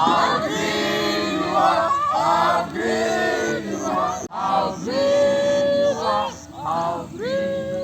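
A group of young people singing and chanting together in a game song, some lines ending in a long held note, with one sharp click about four seconds in.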